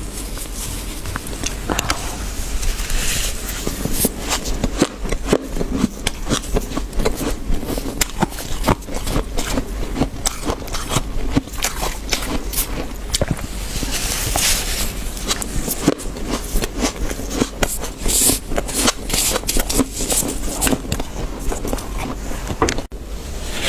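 Fluffy, deep freezer frost being crunched and scraped: a dense, irregular run of sharp crackles and crunches.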